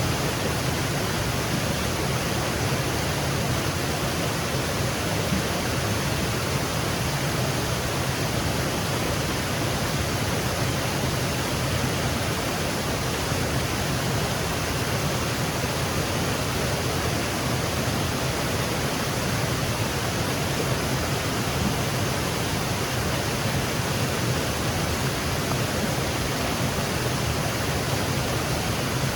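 Small woodland waterfall cascading over rocks: a steady, unbroken rush of falling water.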